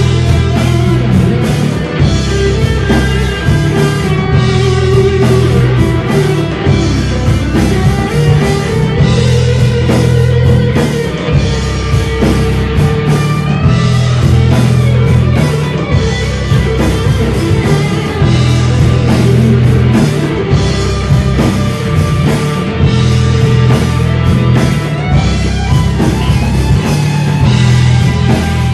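Rock band playing live: guitar and drum kit, loud and continuous.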